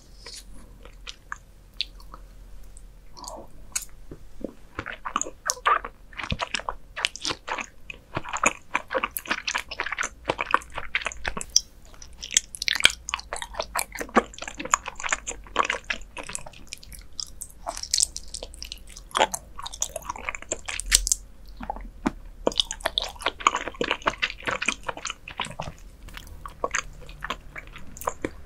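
Close-miked eating: a person biting and chewing raw beef offal, wet smacking and crisp clicking in quick, irregular runs broken by short pauses.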